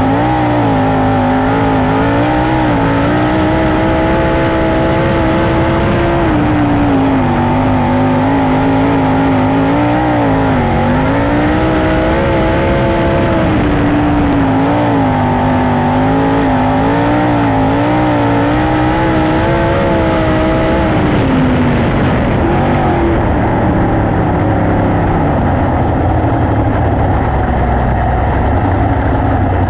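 410 sprint car's V8 at full race speed on a dirt oval during a timed hot lap, its pitch rising and dipping again and again as the throttle is lifted and reapplied through the turns. About 21 seconds in the pitch drops and the engine settles to a lower, steadier run as the car slows.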